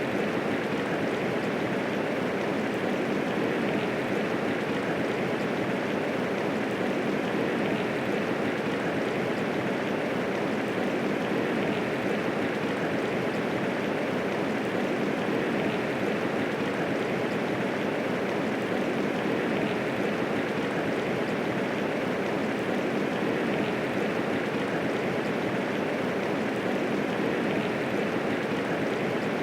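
Medium rainfall, a steady even hiss of rain with no thunder.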